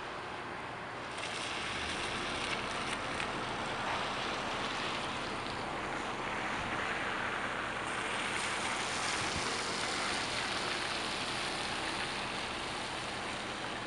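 Thunderstorm rain falling steadily, an even hiss that grows louder about a second in, with a faint low hum underneath.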